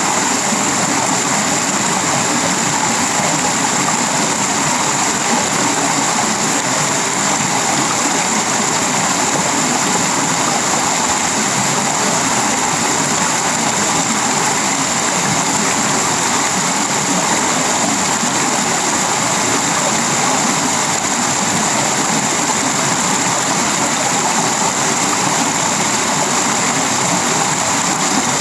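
Heavy tropical rain falling steadily on a sheet-metal roof, wood and leaves, a constant even hiss with no let-up.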